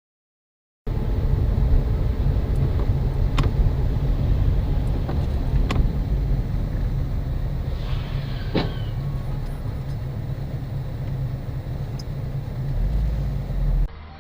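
Steady low rumble of a car driving, as picked up by a dashcam inside the vehicle, with a few faint clicks; it starts abruptly about a second in and cuts off just before the end.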